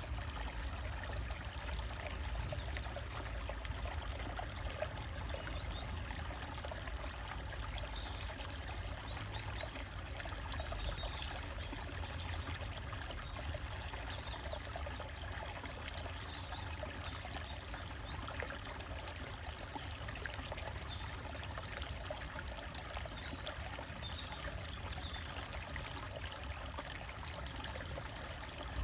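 Small stream trickling and splashing over rocks in a steady, unbroken flow, with a low rumble beneath. Faint short bird chirps come through now and then, most around the middle.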